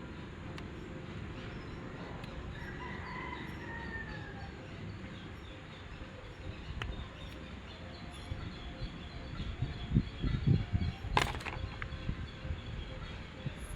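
A rooster crows once in the background, a drawn-out call about three seconds in. Later come a few low knocks and one sharp click, the loudest sound, from handling something close by.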